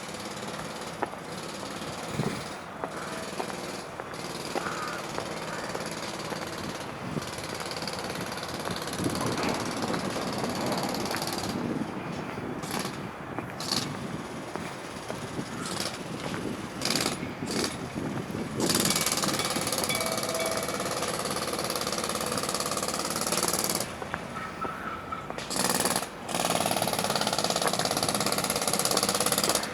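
Pneumatic jackhammer breaking concrete, stopping briefly and starting again several times.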